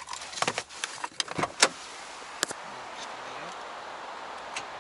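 Keys jangling and a series of sharp clicks as a second key is tried in a Toyota RAV4's ignition, then a steady hiss; the engine does not crank, which is put down to a possible fault in the alarm.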